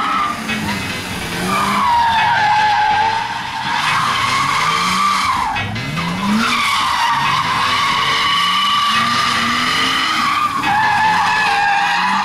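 A drifting car's rear tyres squealing in long, wavering screeches with a few short breaks, while the engine revs rise and fall over and over.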